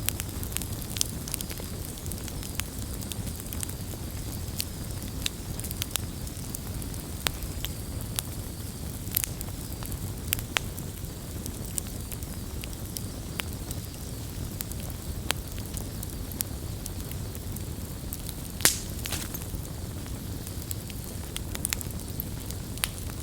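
Campfire burning with a steady low rumble and frequent sharp crackles and pops at irregular intervals, one louder pop about three-quarters of the way through.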